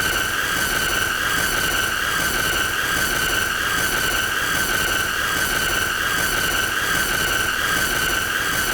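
A steady, piercing high-pitched squeal with a stack of overtones, its pitch wavering slightly in a regular pulse. It plays on without a break as an endless 'most annoying sound'.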